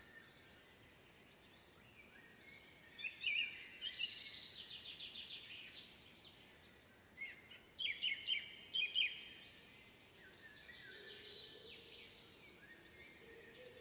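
Woodland songbirds singing, with two louder trilled song phrases about three and seven seconds in and fainter calls between them.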